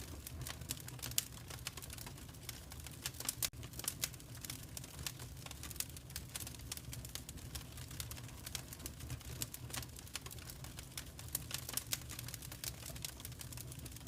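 Wood fire crackling steadily, with many irregular sharp pops and snaps over a low, even rumble of the flames.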